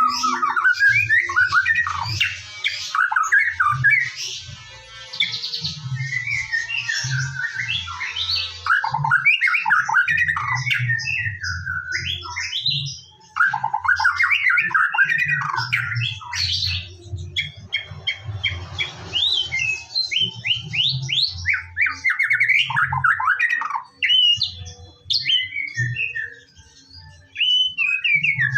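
White-rumped shama (murai batu) singing a long, varied song of whistles, rapid trills and harsh scratchy notes, with short breaks, the kind of recording played to prime a caged shama into full song.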